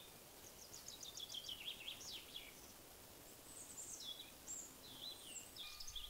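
Songbirds singing: a quick run of high notes falling in pitch about half a second in, then more short phrases from about four seconds on, over faint outdoor background noise.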